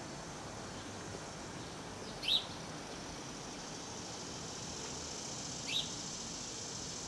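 A bird chirps twice, two short high calls about three seconds apart, over a steady outdoor background hiss.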